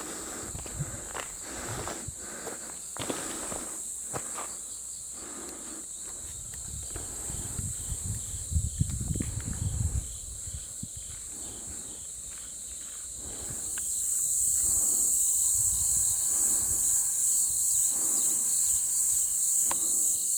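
Insects droning in a steady high chorus that swells louder about two-thirds of the way through. Through the first half there are irregular footsteps and rustling close by.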